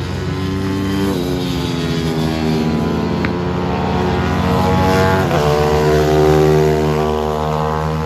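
Small motorcycle engine accelerating hard through the gears, its pitch climbing steadily and dropping back at each of about three upshifts.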